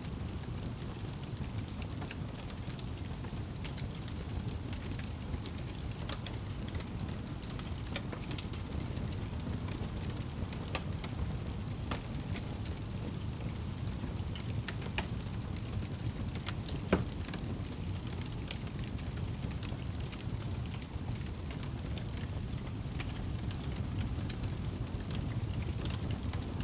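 Crackling fire over steady rain: a constant low rush with scattered sharp crackles and pops, one louder pop about two-thirds of the way through.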